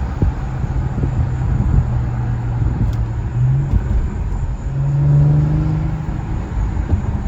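Car engine and exhaust running while driving, after a delete has been done on the exhaust, with a steady low drone whose pitch rises slightly a little past halfway and swells briefly.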